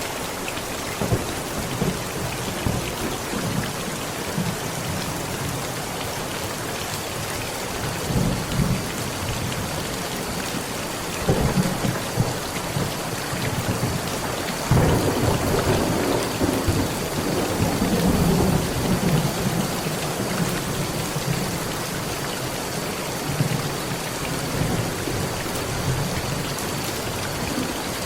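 Heavy rain drumming steadily on a metal roof, with thunder rumbling several times; the loudest, longest peal comes about halfway through and rolls on for several seconds.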